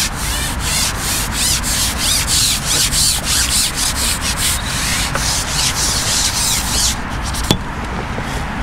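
Rhythmic rubbing or scraping strokes, about three a second, over a steady low rumble. The strokes stop about seven seconds in, followed by a single click.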